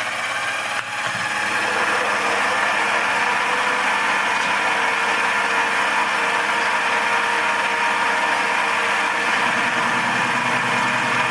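Milling machine spindle coming up to speed in the first second or two, then running with a steady whine. The low end fills out about nine seconds in.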